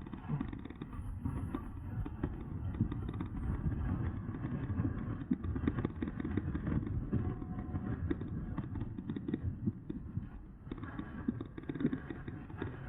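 Riding noise from a moving e-bike: a steady low rush of wind on the microphone, mixed with irregular knocks and rattles as the bike rolls over rough ground.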